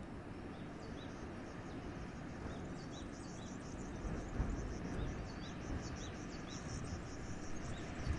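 Wind blowing steadily with a low gusty rumble, while a small bird gives repeated short, high chirps.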